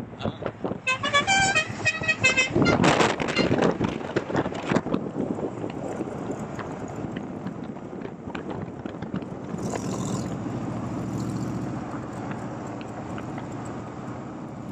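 A vehicle horn sounds a string of short pitched tones for about two seconds, starting about a second in. It is followed by the steady engine and road noise of a car driving.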